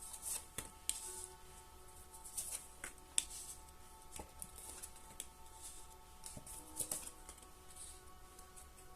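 Tarot cards being shuffled and handled, a series of soft crisp clicks and rustles, over quiet background music with long held tones.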